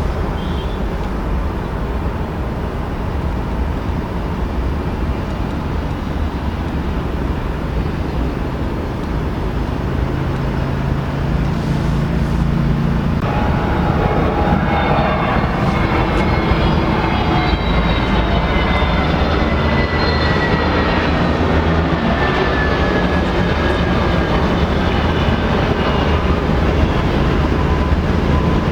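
Airliner engines running loud and steady, growing louder about halfway through as a high whine sets in and slowly falls in pitch as the aircraft passes.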